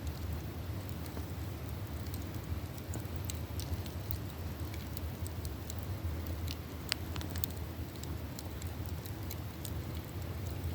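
Campfire crackling: scattered sharp pops and snaps of burning wood over a steady low rumble, with one louder pop about seven seconds in.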